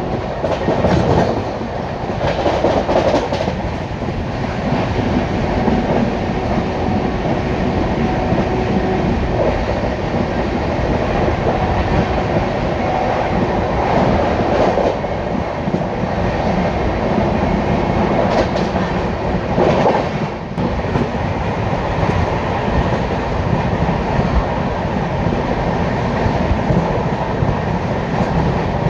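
Express passenger train running at speed, a steady loud rush of wheel and track noise.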